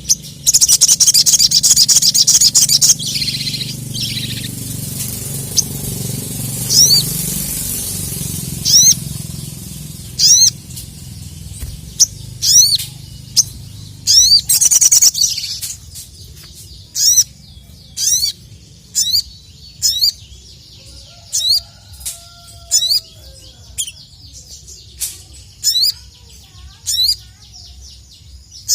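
Sogon (sogok ontong) sunbird calling loudly in a heated, challenging mood. It opens with about three seconds of rapid, dense high chatter, then gives a long run of short, sharp, high call notes about one a second.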